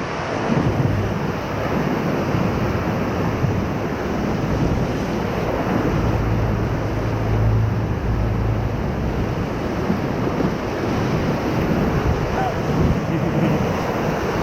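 Whitewater rapid rushing steadily around a raft as it runs through big standing waves, with wind noise on the microphone.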